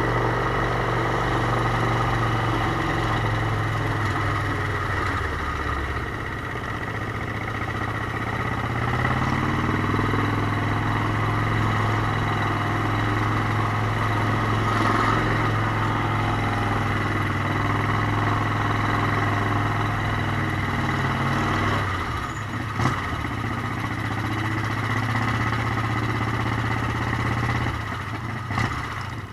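Motorcycle engine running under way, its note shifting down and back up a few times as the revs change.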